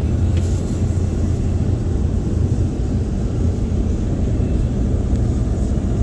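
Automatic car wash machinery heard from inside the car: a steady low rumble.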